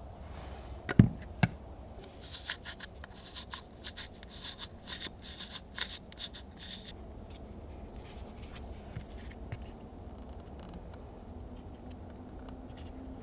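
Hand work on a car part: two sharp knocks about a second in, then several seconds of quick scraping and scratching strokes that die away to quiet handling.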